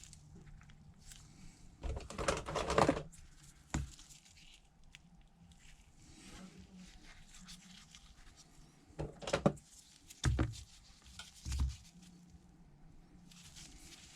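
Scattered light knocks and clicks of small objects being handled on a workbench, with a sharp click about four seconds in and a few short thuds later on.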